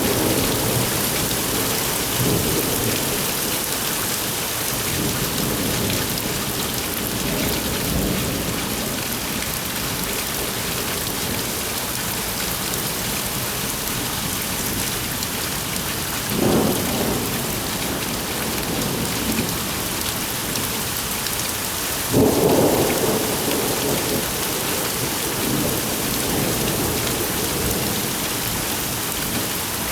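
Thunderstorm: steady heavy rain with rumbles of thunder, the two loudest about halfway through and again some six seconds later.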